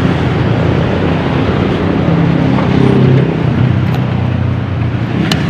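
Carburetted Mitsubishi 4G15 inline-four engine idling evenly at about 800 rpm with the air conditioning on, after a carburettor cleaning that cured its black smoke and rough running. A sharp click sounds near the end.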